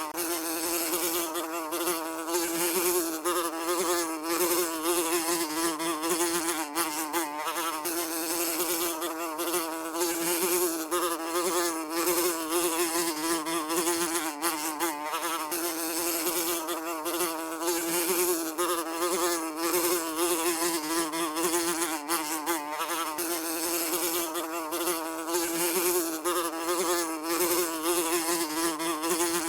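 Housefly buzzing continuously, a steady droning hum that wavers slightly in pitch as it flies.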